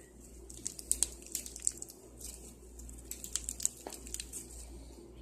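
Crunchy slime with beads in it being worked, giving a run of small irregular crackles and clicks.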